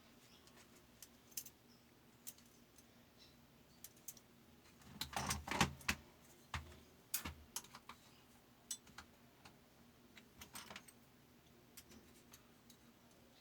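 Faint, scattered metallic clicks and clinks of small metal parts and tools being handled during maintenance of a fabric cutting machine's sharpener, with a louder cluster of knocks about five to six seconds in.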